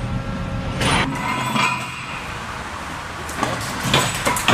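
Steady mechanical noise with several sharp knocks, most of them bunched in the last second and a half.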